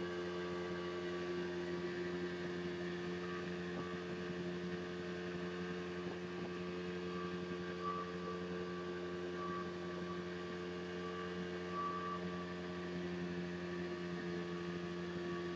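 Motorboat engine running at a steady speed: an even, unbroken hum.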